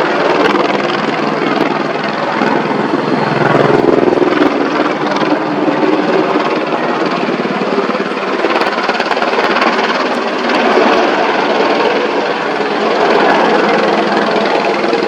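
AH-64E Apache attack helicopter flying close by, with steady, loud rotor and turbine noise.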